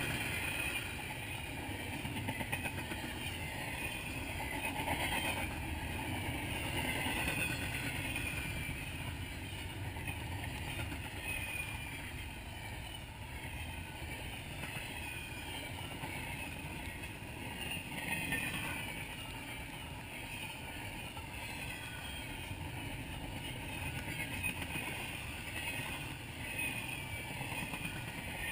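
Double-stack container freight train rolling steadily past: a continuous noise of wheels on rails, with short high falling squeals recurring every second or so.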